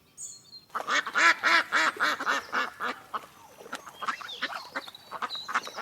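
Duck quacking in a rapid run, about four quacks a second, fading after about three seconds into fainter scattered calls.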